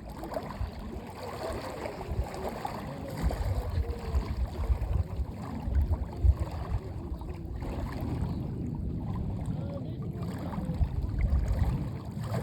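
Water sloshing and splashing close to the microphone, with irregular low rumbling buffets.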